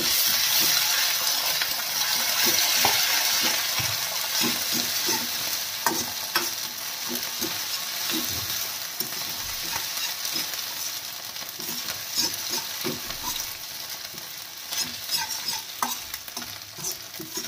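Chopped garlic, ginger and crushed chilli sizzling in hot oil in a kadai, frying until the garlic starts to colour. They are stirred through it, with scattered scrapes and knocks of the spoon against the pan. The sizzle is loudest at the start and eases off gradually.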